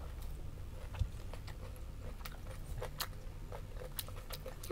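Close-up chewing of a homemade fishball: scattered small wet mouth clicks, with a low thump about a second in.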